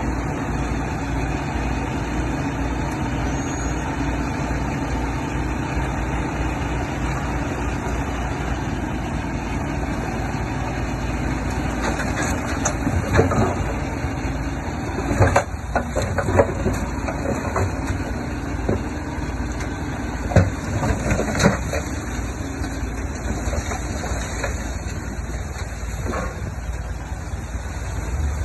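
Heavy diesel earthmoving machinery running steadily, with a handful of sharp metallic clanks around the middle.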